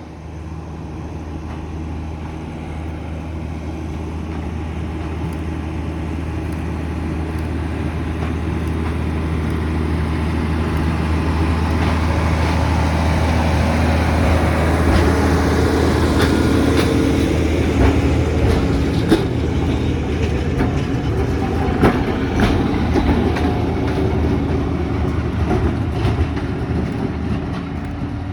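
Heritage tram approaching along the track: a steady low hum grows louder, then from about halfway its wheels click and knock over the rail joints.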